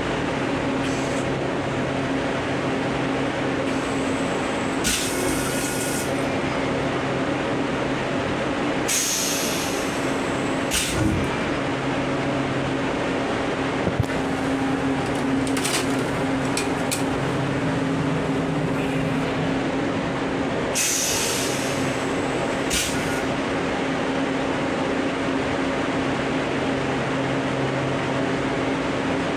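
Steady running hum of a Long Island Rail Road M7 electric railcar, heard inside its small restroom, with several short hisses over it.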